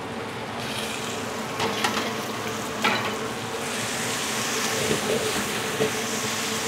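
Chicken and beef meatballs sizzling in hot oil in a wok, the sizzle growing brighter about halfway through, with a few short clinks or scrapes of the stirring spatula.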